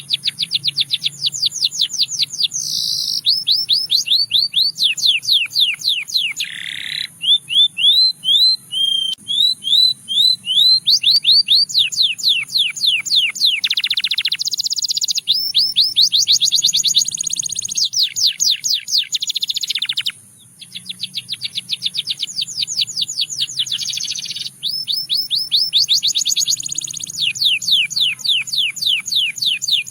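Russian singing canary, a domestic canary, singing a long song made of fast trills, each a quick run of one repeated note, switching from one trill to the next every few seconds. About seven seconds in it slows to a run of separate, more widely spaced notes, and there is a brief break about twenty seconds in before the trills resume.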